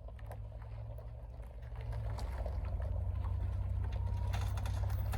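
Suburban's engine running at low revs, getting louder about two seconds in as it starts the pull to tip the car back onto its wheels.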